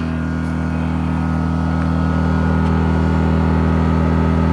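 WEN 1250-watt inverter generator running steadily with an even engine hum, growing a little louder over the first few seconds.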